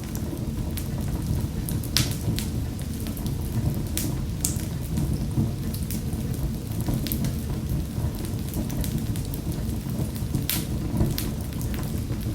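Wood fire burning in a fireplace: a steady low rumble of flames with sharp pops and crackles scattered through it, a few louder snaps among them.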